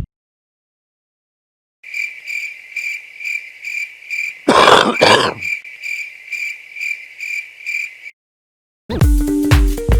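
Crickets chirping: a steady, even, high-pitched chirp about twice a second, with a loud noisy burst in two parts about halfway through.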